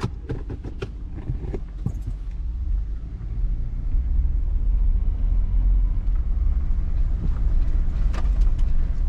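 A few sharp clicks and knocks in the first two seconds, then a pickup truck's engine and road rumble heard from inside the cab, growing louder about three seconds in and holding steady as the truck pulls away.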